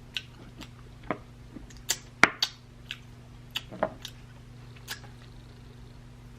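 Close-up eating sounds as noodles and sausage are chewed: scattered wet mouth clicks and lip smacks, the loudest a little over two seconds in, dying away after about five seconds, over a low steady hum.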